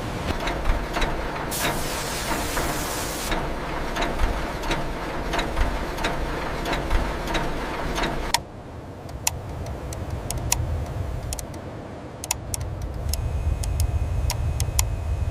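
Industrial factory ambience: a low machine rumble under a steady hiss with a regular run of sharp mechanical clicks, cutting abruptly about eight seconds in to a quieter rumble with only scattered clicks.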